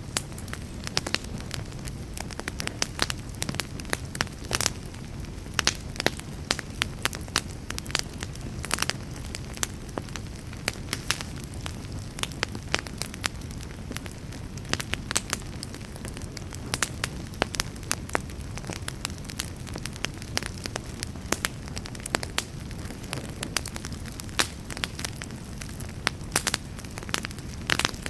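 Wood campfire crackling: irregular sharp pops and snaps of burning wood, some louder than others, over a steady low rumble.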